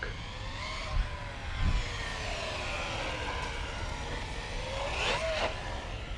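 Axial Yeti Score RC trophy truck's electric motor whining as it drives, the pitch sliding down and back up with the throttle and climbing sharply then dropping about five seconds in, over a low rumble of the tyres on the ground. A couple of brief knocks come in the first two seconds.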